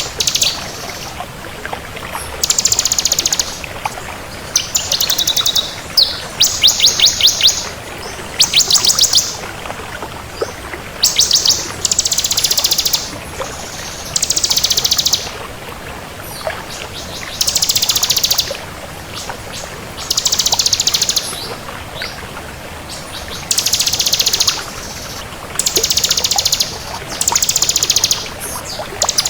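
Ciblek kristal (bar-winged prinia) singing: loud, high, rapid trilling phrases about a second long, repeated every one to three seconds with short pauses between.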